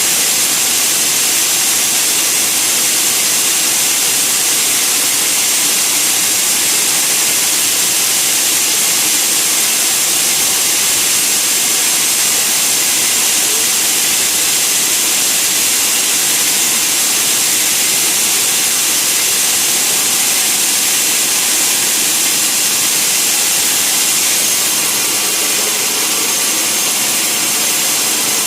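Sawmill saw running and cutting wood: a loud, steady, hissing machine noise, a little softer near the end.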